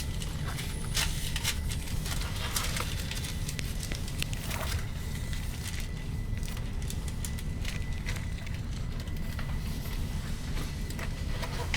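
Passenger train running: a steady low rumble with scattered light clicks and rattles.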